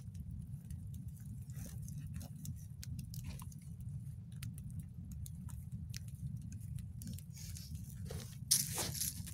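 Wood fire crackling with irregular sharp snaps, thicker and louder near the end, over a steady low rumble.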